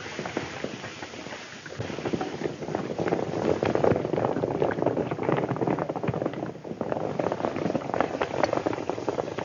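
Horses galloping: a dense, irregular clatter of hoofbeats over a rushing noise, growing louder about two seconds in.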